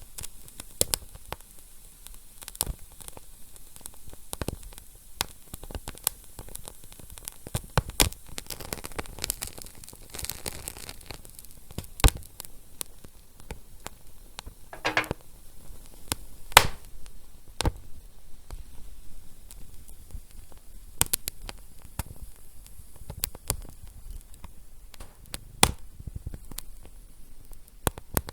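Fire crackling: irregular sharp pops and snaps over a steady soft hiss, with a short hiss about halfway through.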